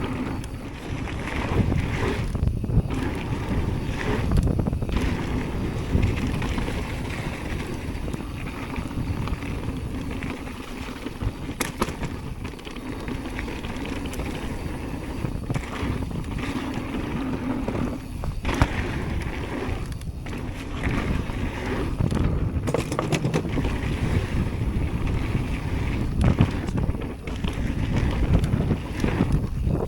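Wind buffeting the microphone over the rumble of mountain bike tyres on a dirt trail while riding downhill, with a few sharp clatters from the bike.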